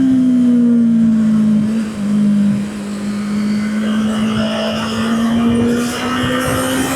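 Honda CB650R's inline-four engine running under way, its pitch falling as the bike slows over the first two seconds, a brief dip about two seconds in, then climbing steadily as it pulls back up.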